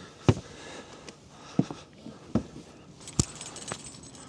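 Four sharp knocks, each about a second apart, the first the loudest.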